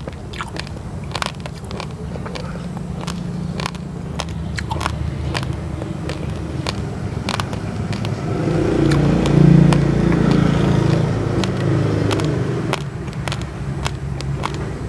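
Crunching of raw, uncooked rice grains being chewed: basmati mixed with glutinous rice, giving many sharp, crisp cracks. A motor vehicle passes, its engine hum rising to a peak about two-thirds of the way in and then fading.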